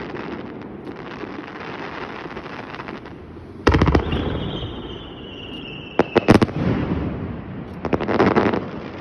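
Aerial fireworks going off with constant crackling. A loud boom comes a few seconds in, followed by a whistle that falls slightly in pitch and ends in sharp cracks, then another burst near the end.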